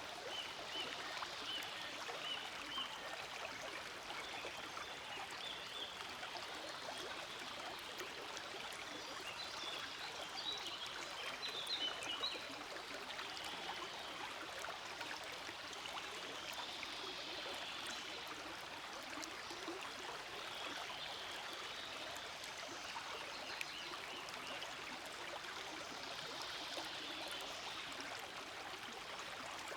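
Small forest stream flowing and trickling steadily, with a few brief high chirps at the start and again about ten to twelve seconds in.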